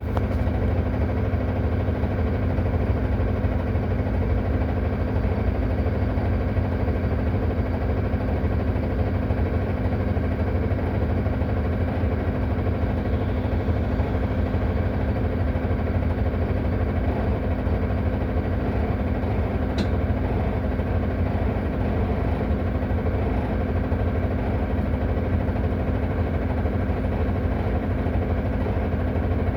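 Solaris Urbino 18 articulated bus idling with the parking brake set, with a loud rattle running steadily over the engine.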